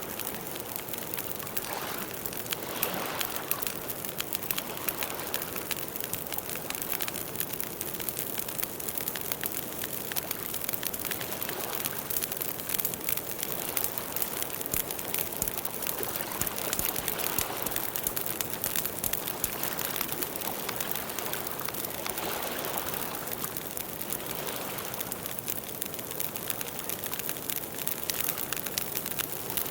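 Campfire crackling steadily with many small rapid pops, over a soft rushing sound that swells now and then.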